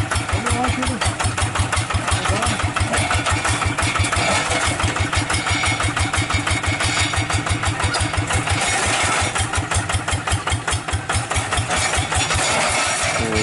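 Hand tractor's single-cylinder diesel engine running steadily, an even rapid chugging of about seven beats a second.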